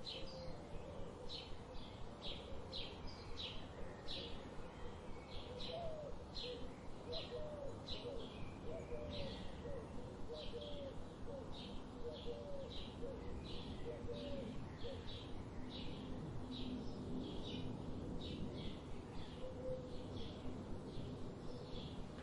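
Wild birds calling: one bird repeats short high chirps about twice a second throughout, while a low-pitched series of cooing notes runs through the middle and fades out about two-thirds of the way in. A steady outdoor hiss lies underneath.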